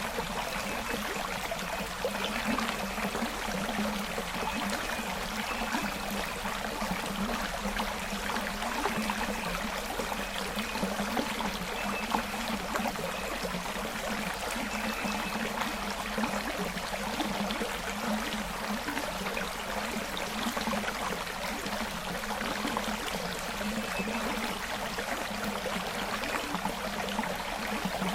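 Forest creek flowing steadily, water splashing and trickling over stones.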